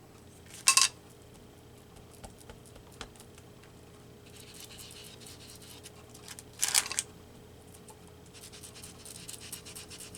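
Foam ink blending tool rubbed over a stencil and paper: faint scratching, with two short, louder scrapes, one about a second in and one near seven seconds in.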